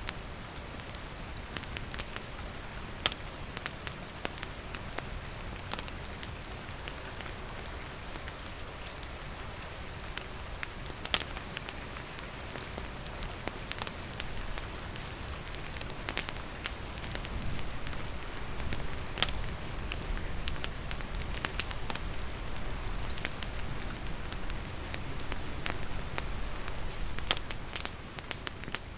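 Steady rain falling and pattering on surfaces, with a wood campfire crackling and sharp pops breaking through every second or two.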